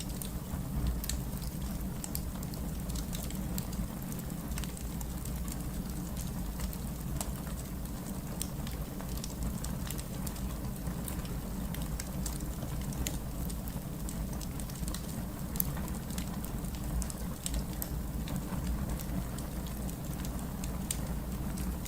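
Wood fire crackling in a fireplace: many small, irregular pops and snaps over a steady low rumble of the flames.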